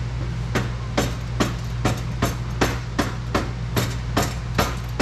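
A hammer striking the exhaust pipe in a steady run of about a dozen blows, roughly two and a half a second, driving a pipe section further into its joint. A steady low hum runs underneath.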